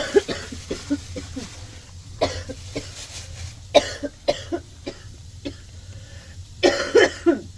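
A woman with a cold coughing in repeated fits: a series of coughs at the start, single harsh coughs about two and four seconds in, and a hard fit of several coughs near the end.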